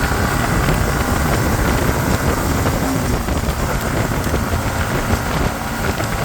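Motorcycle riding along the road, its engine running under steady wind rush on a helmet-mounted microphone.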